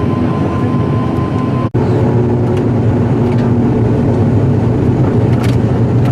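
ATR 72-500 turboprop engines and propellers running with a loud, steady drone of low hum. About two seconds in, the sound cuts out for an instant, and a faint steady high tone stops there.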